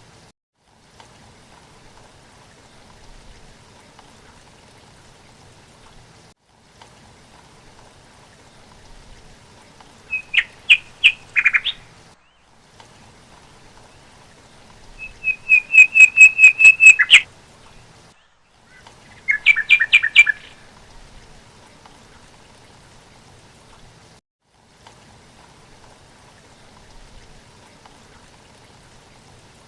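A bird calling in three bursts of rapid, repeated, high chirping notes, the middle burst the loudest and longest, over a faint steady hiss.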